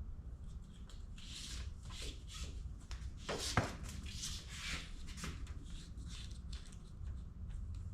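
Wire-harness sleeving being slid and rubbed along a bundle of wires: irregular rustling and scraping, with one sharper click a little past three seconds in, over a low steady hum.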